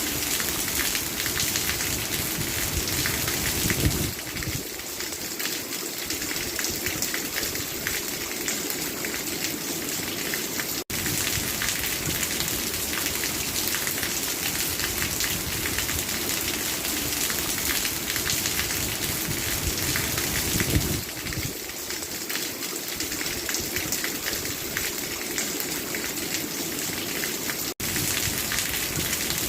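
Steady rain falling, a dense even hiss of drops. It cuts out for an instant twice.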